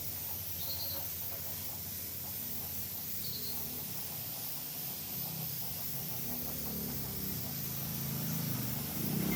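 Steady hiss of a spray or air jet over a low hum that grows stronger in the second half.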